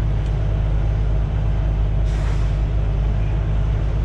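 Semi truck's diesel engine running steadily at low speed, heard from inside the cab, with a short hiss of air about two seconds in.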